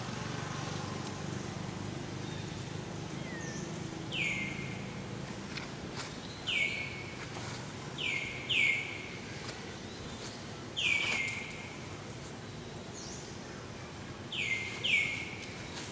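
A bird repeating a short, sharp call that slides downward in pitch, singly or in quick pairs, every couple of seconds over steady low background noise.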